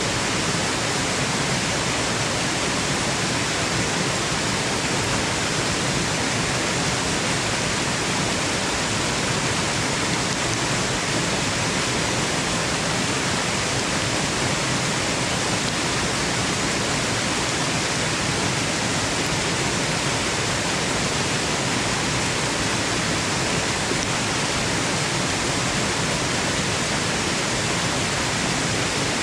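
Waterfall rushing, a steady, even noise of falling water that does not change, used as white noise for sleep.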